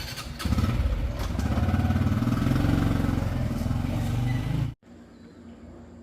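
Motorcycle engine running close by, jumping louder about half a second in and holding steady, then cut off abruptly near the end.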